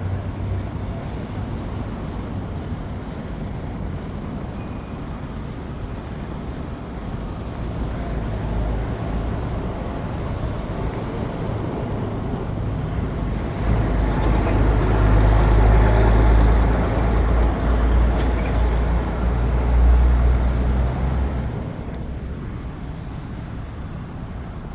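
Steady city street traffic. About halfway through, a large vehicle passes close with a deep engine rumble that swells for several seconds and then fades.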